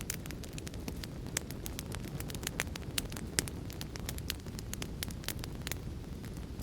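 Fireplace fire crackling: a steady stream of sharp pops and snaps, several a second and uneven in strength, over a constant low rumble of the flames.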